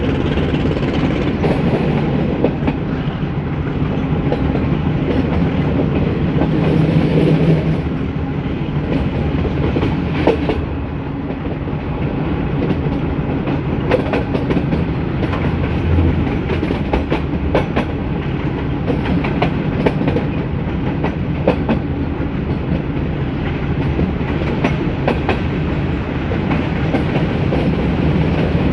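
Metre-gauge passenger train running along the track: a steady rumble with irregular clicking and clatter as the wheels pass over rail joints.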